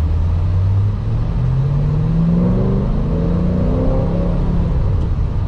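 The supercharged 2010 Chevrolet Camaro SS's 6.2-litre V8 accelerates, its note climbing steadily in pitch for about three seconds, then falling away near the end at a gear change.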